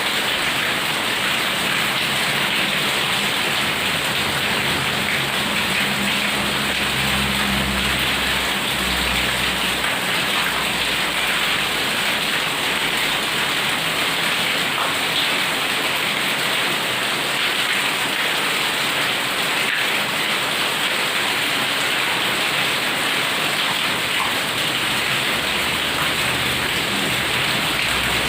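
Heavy rain pouring steadily, with a low rumble about six to ten seconds in and again near the end.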